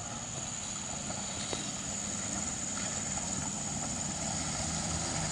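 Engine of a compact SUV running at low speed as it creeps over a rutted mud road, growing steadily louder as it approaches.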